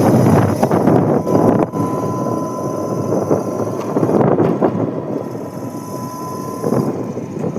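Wind buffeting the microphone of a moving vehicle, heaviest for the first couple of seconds, over a steady engine whine.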